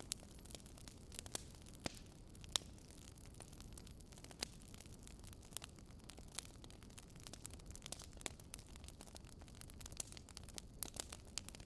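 Bonfire burning with irregular crackles and sharp pops over a low, steady rumble of the flames; one louder pop about two and a half seconds in.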